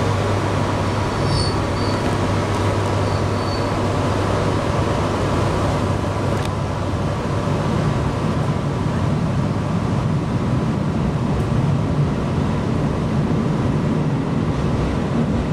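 Steady running noise heard from inside a train's passenger car as the train moves slowly along the platform, with a low hum early on giving way to a low rumble.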